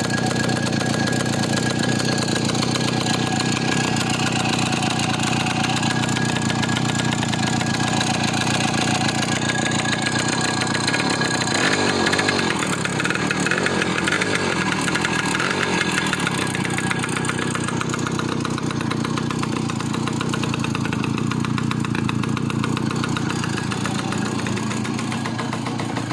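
Karpaty moped's single-cylinder two-stroke engine running steadily after a carburettor rebuild. Its speed rises and falls a few times about halfway through, then settles back to an even run.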